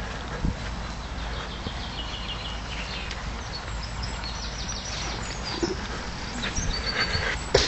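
Outdoor ambience: a steady low rumble of wind and handling on the microphone, with faint high bird calls in the middle and a few sharp knocks near the end.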